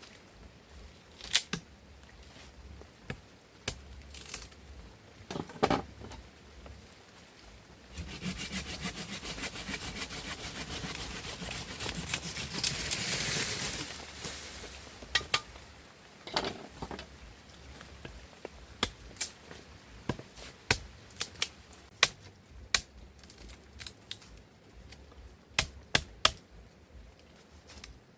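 Wood being worked by hand: scattered knocks and clicks, with a stretch of rasping, sawing-like scraping in the middle that lasts about six seconds and grows louder before stopping.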